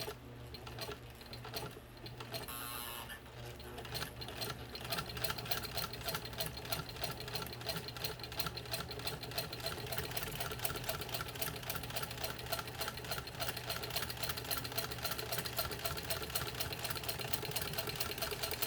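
Singer 15 domestic sewing machine stitching through three layers of leather, its needle strokes running at a fast, even rhythm. The machine is quieter with scattered clicks for the first few seconds, then settles into steady sewing about four seconds in.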